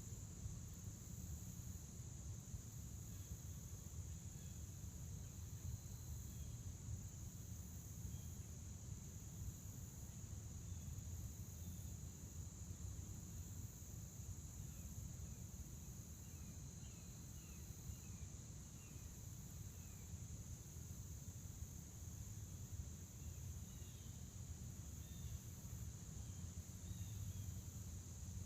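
Crickets chirping in a steady, high-pitched chorus over a low rumble, with faint short bird chirps now and then, more of them in the second half.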